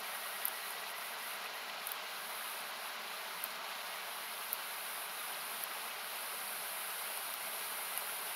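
Steady hiss of rushing river water, with a handful of sharp pops from a wood campfire crackling at scattered moments.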